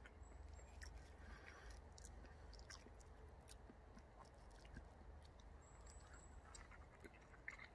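Faint chewing with small, irregular clicks: someone eating a potato farl.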